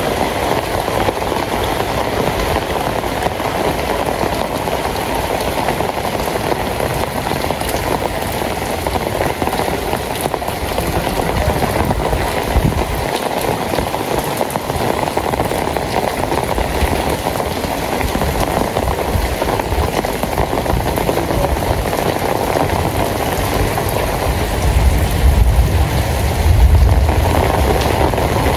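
Steady rain falling on a street, a dense, even patter. A low rumble swells in the last few seconds.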